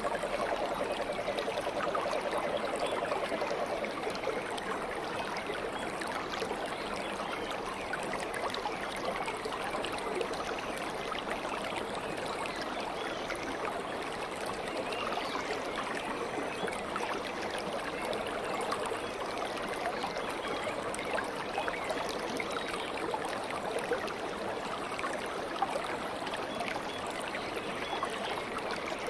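Water of a small stream flowing and burbling steadily.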